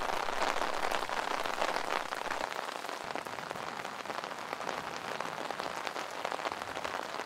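Steady rain falling hard, a dense patter of many small drop impacts.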